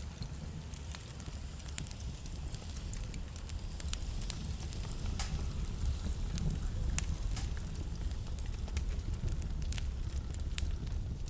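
Wood fire burning in a fireplace: logs crackling and popping in sharp, irregular snaps over a steady low rumble.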